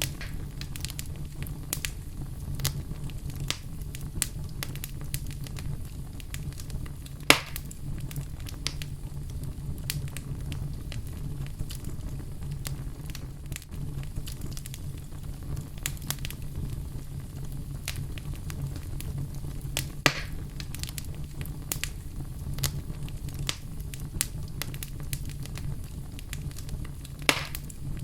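Wood fire crackling in a fireplace: a steady low rumble with many small snaps and three louder pops.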